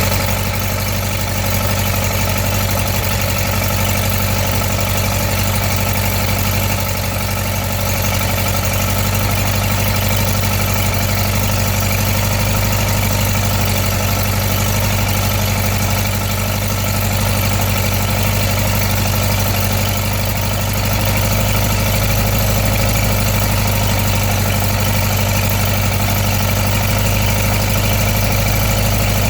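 An engine running steadily at idle on its first run, with an even low hum that gets a little louder about two-thirds of the way through.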